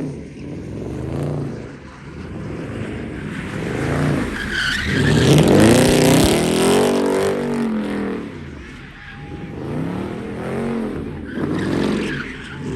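A car's engine revving up and down again and again while its tyres squeal in a skid, loudest about five to seven seconds in.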